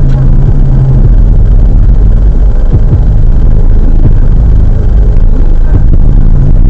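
Car engine and road rumble heard from inside the cabin through a dashboard camera's microphone, very loud and pushed to the limit, with most of the sound in a deep, steady rumble.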